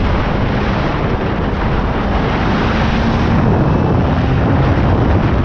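Suzuki GSX250R's parallel-twin engine running under heavy wind noise on the microphone, the engine note rising slightly near the middle.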